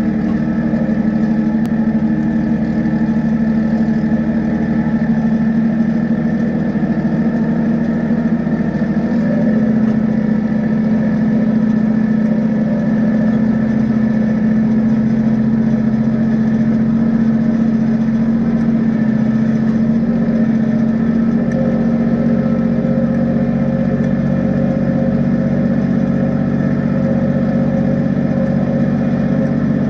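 Kubota tractor's diesel engine running steadily under work, its note stepping up slightly about nine seconds in.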